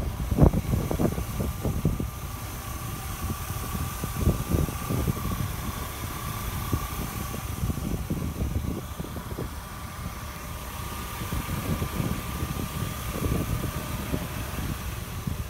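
BMW 525i's 2.5-litre inline-six idling steadily, with a steady high whine and gusty rumble from wind on the microphone.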